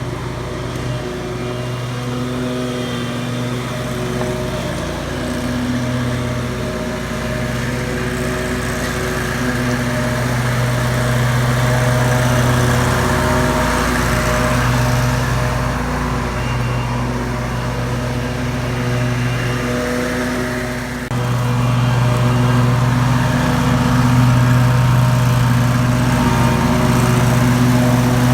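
Motor vehicle driving, its engine and road noise a steady hum that swells and eases slightly, stepping louder about two-thirds of the way through.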